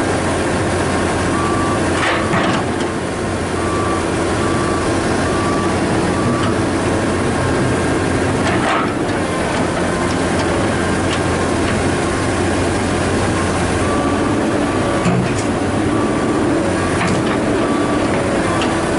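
Komatsu hydraulic excavator running, its diesel engine droning steadily while a warning alarm beeps over and over, with a few sharp metal clanks.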